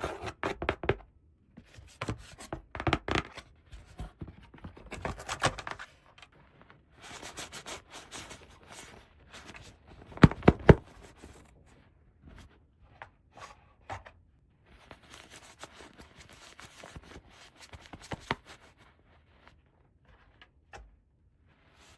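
Hands unboxing a toy play set: irregular crinkling, tearing and scraping of packaging with small clicks. The loudest are two sharp snaps a little past ten seconds in, and the handling grows sparse near the end.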